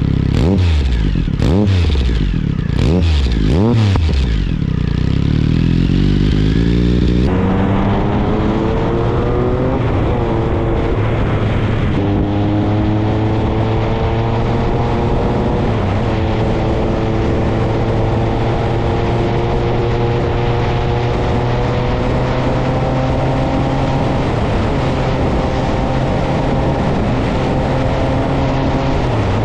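Triumph Speed Triple 1050's inline three-cylinder engine breathing through an SC-Project aftermarket exhaust. It gives about four quick revs in the first few seconds, then runs steadily with the pitch climbing and dipping a few times, as in shifting through the gears, before holding a fairly even note.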